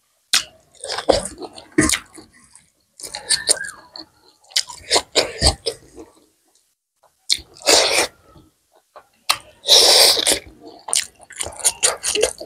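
Close-miked chewing and mouth smacking of rice and buffalo meat eaten by hand, in irregular bursts, with fingers mixing rice on a metal plate. A longer, louder breathy burst comes about ten seconds in.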